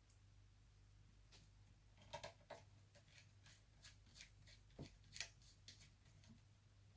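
Faint, irregular clicks and light scrapes of a small screwdriver driving screws back into a laptop motherboard's modules, starting about two seconds in, over a low steady hum.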